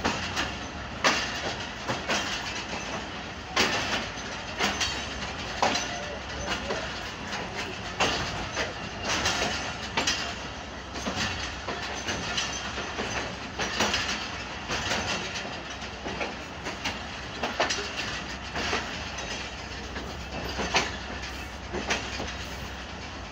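Pakistan Railways passenger coach rolling through a station yard, its wheels clacking irregularly over rail joints and points under a steady low rumble.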